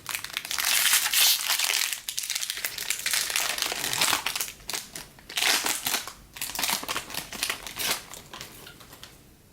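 Plastic wrapper of a baseball card pack being torn open and crinkled by hand. There are several bursts of crinkling, loudest in the first couple of seconds, that die away near the end.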